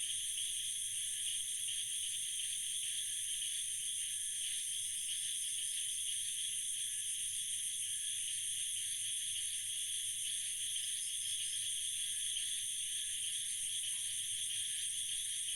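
Night insect chorus, crickets trilling steadily in several high-pitched bands layered over one another.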